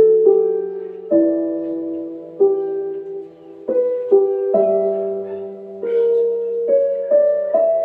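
Slow, gentle solo piano music: single notes and soft chords struck about once a second, each ringing out and fading.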